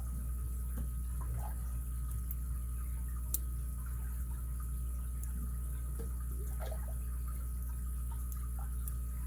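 Faint scattered ticks and small clicks of a lock pick and tensioner working the pins inside an ABUS 83CS/55 padlock, with one sharper click about three seconds in, over a steady low hum.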